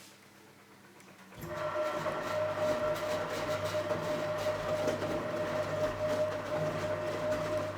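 Philco Bendix W84RX washing machine starting up about a second and a half in, then running with a steady hum and a clear whining tone over a mechanical rumble.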